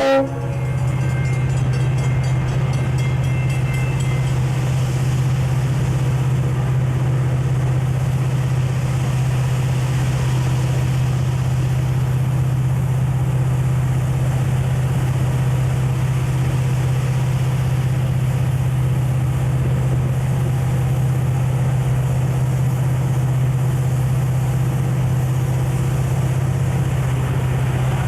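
Diesel freight locomotive running steadily, a constant low drone with rail noise over it; a horn cuts off right at the start.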